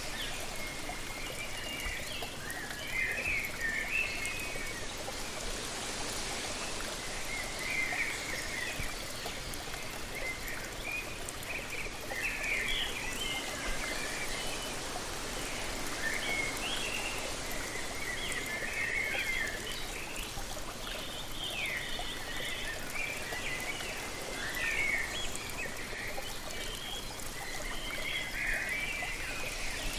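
Steady rush of a waterfall, with many birds chirping and calling over it throughout.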